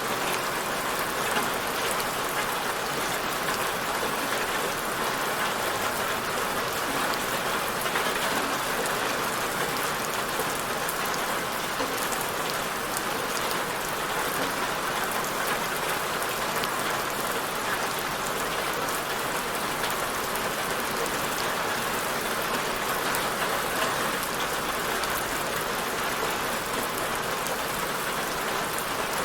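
Steady rain falling on a surface, an even hiss with scattered patter of drops.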